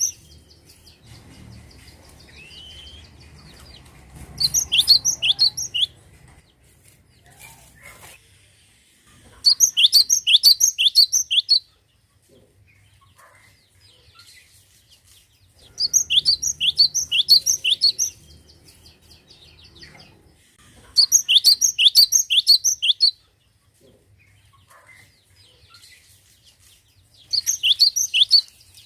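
Cinereous tit (glatik batu) singing: about five loud bursts of quick, high, repeated notes, each burst about two seconds long, coming every five to six seconds.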